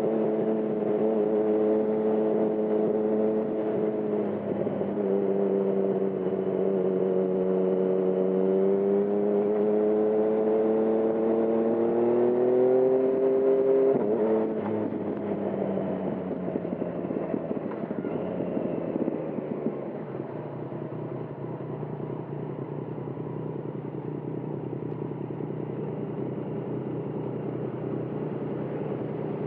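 2020 Yamaha MT-09's inline three-cylinder engine through a Termignoni exhaust, pulling steadily and then rising in pitch as it accelerates. About halfway through the throttle closes: the note falls away and the engine settles to a lower, quieter steady sound.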